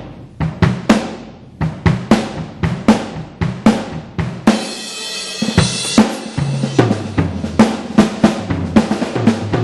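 Electronic drum kit on a 2Box module, triggering sampled acoustic drum sounds: a run of kick, snare and tom hits, with a cymbal crash about four and a half seconds in.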